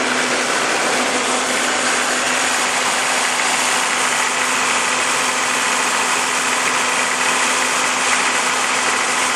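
Four-wheel-drive engine idling steadily with an even, noisy rumble.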